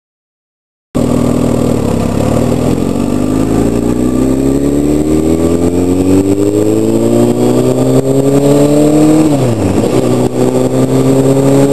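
Sportbike engine pulling under acceleration, its pitch climbing slowly and steadily. About nine and a half seconds in the pitch dips briefly, then it climbs again.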